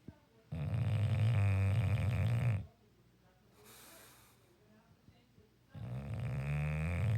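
Sleeping bulldog snoring: two long, loud rasping snores of about two seconds each, the second starting about three seconds after the first ends, with a faint breath between them.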